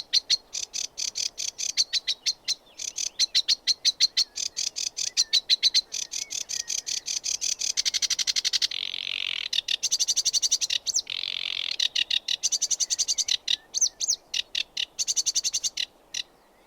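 Sedge warbler singing: a fast run of short, high repeated notes, about seven a second, broken twice by denser continuous stretches, stopping shortly before the end.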